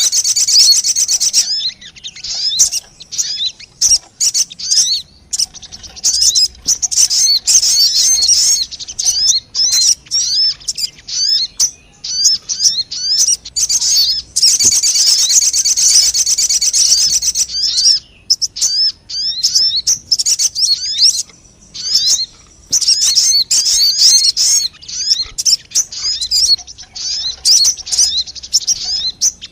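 Bird-lure recording of the sogon bird: rapid, high chirping and twittering calls in dense runs, with short pauses between the runs.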